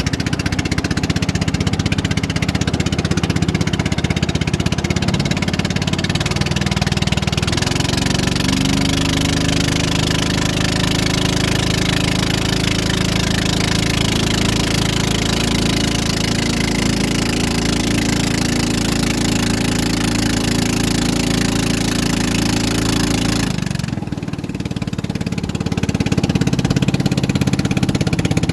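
Motorboat engine running steadily at fairly constant speed. Its pitch shifts slightly a few times and it dips briefly about four-fifths of the way through before picking up again.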